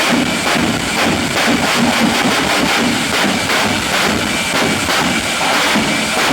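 Jet engine of a jet-powered semi truck running loud and steady, with a faint regular pulsing.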